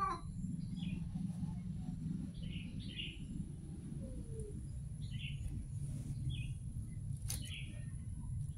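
Small birds chirping in short, scattered calls, about five or six in all, over a steady low rumble. A single sharp click comes a little after seven seconds in.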